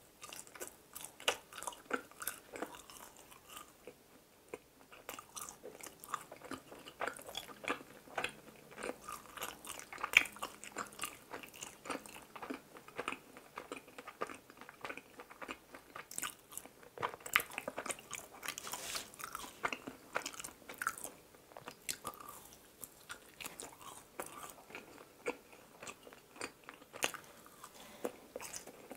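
Close-miked chewing of doughnuts: an irregular run of small sharp smacks and crunches, several a second.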